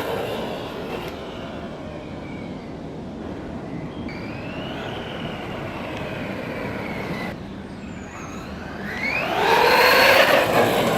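JLB Racing Cheetah RC truck's brushless electric motor whining as the truck runs. The whine falls away at the start, runs quieter for several seconds, then rises loudly as the truck accelerates again near the end.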